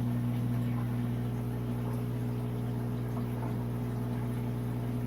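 Aquarium filtration running: a steady low hum from the tank's pumps and filters, with a faint wash of moving water over it.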